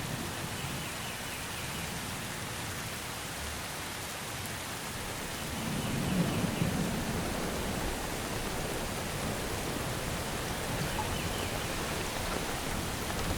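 Steady rain falling in a forest. About six seconds in, a low rumble of distant thunder swells and the rain grows a little louder. A few faint, high bird chirps come and go.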